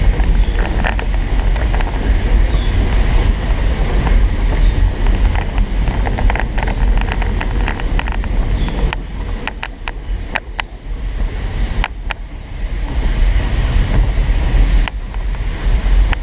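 Steady low rumble of a moving train, with irregular clicks and knocks from the running gear and track and wind buffeting the microphone; the rumble eases briefly about two thirds of the way through.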